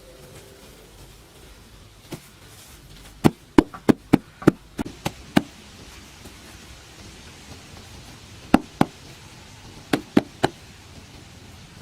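Sharp knocks of something hard being struck, in uneven clusters: a quick run of about ten a few seconds in, then two, then three near the end.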